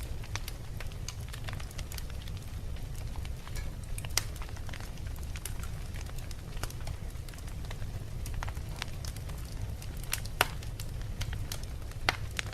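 Wood fire burning in a fireplace: a steady low rumble of flames with irregular crackles and sharp pops from the burning logs. The loudest pops come about four seconds in, about ten seconds in and near the end.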